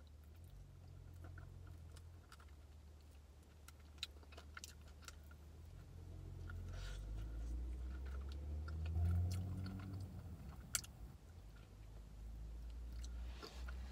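Close-up mouth sounds of eating a chicken wing: chewing and biting meat off the bone, with a few sharp lip smacks, over a low steady hum.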